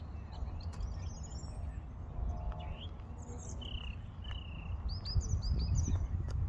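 Small birds chirping and singing, a string of short whistled calls and quick trills, over a steady low rumble of background noise.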